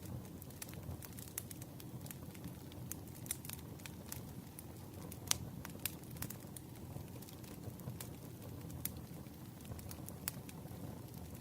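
Campfire crackling: scattered sharp pops and snaps over a low, steady rumble of burning wood, with one louder pop about five seconds in.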